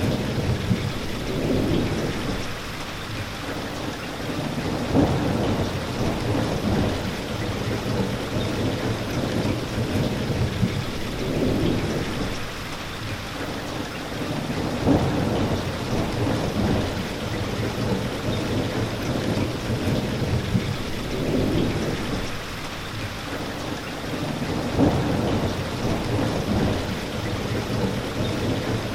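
Steady rain, with low rumbles of thunder that swell and fade every few seconds.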